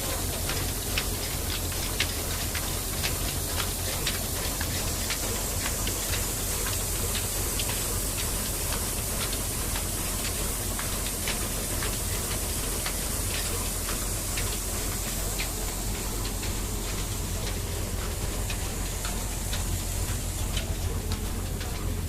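Engine-driven flour mill running steadily: a constant low engine drone with a hiss and fast, irregular ticking over it.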